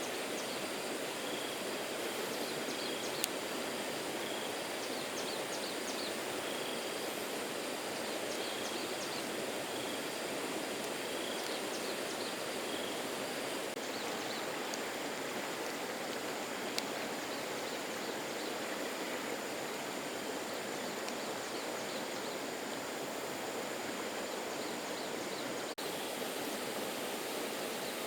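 Steady rushing of flowing water, with a faint short high chirp repeating about once a second through the first half.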